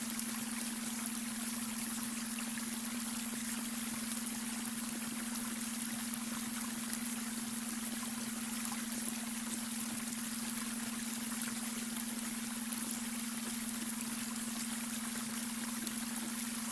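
Babbling brook, water running and trickling steadily over stones, with a steady low hum underneath: the beta brainwave tone mixed into the recording.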